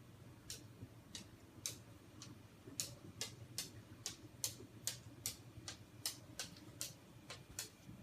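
A series of sharp, dry clicks, a little irregular, sparse at first and then about three a second from around three seconds in.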